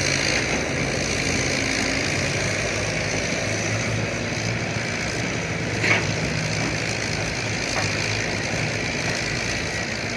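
A dump truck's diesel engine running steadily, its low drone shifting slightly in pitch, with a short sharp click about six seconds in.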